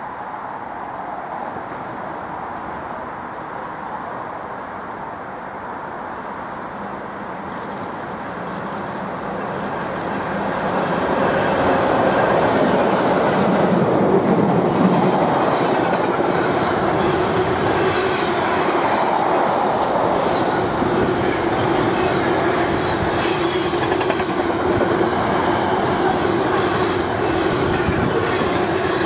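Class 86 electric locomotives 86604 and 86609 hauling a container freightliner past at speed. The train's noise builds over the first ten seconds, and from about eleven seconds the container wagons rattle and clickety-clack over the rail joints with a steady hum.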